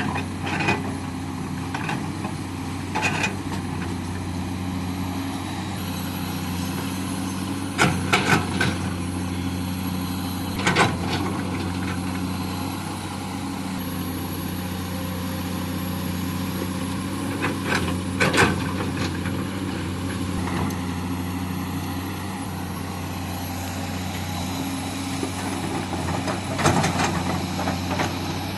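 Heavy truck's diesel engine running at a steady speed, with a low even hum. Short sharp knocks or clanks come through now and then.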